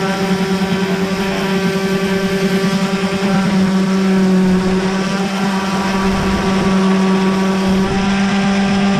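Electric orbital sander running steadily, mounted upside down, with a strong even hum and a rushing hiss over it.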